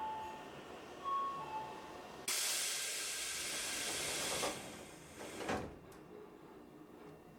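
Two-note falling chime heard twice, then a sudden loud hiss of compressed air for about two seconds, ending with a thud: a Tobu 8000 series train's pneumatic doors closing at a station stop.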